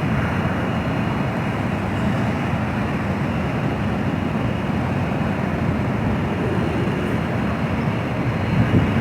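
Steady roar of a jet airliner's engines during takeoff, an even rumble with no rise or fall.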